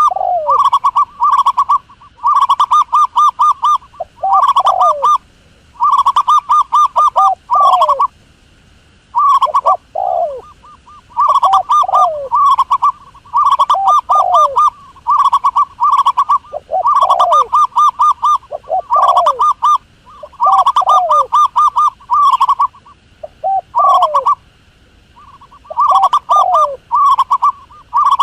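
Doves cooing: runs of rapid short coos with falling notes, repeating in bursts every couple of seconds.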